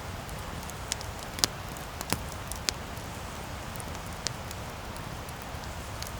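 Wood campfire burning: a steady hiss with sharp, irregular crackling pops, the loudest about a second and a half in.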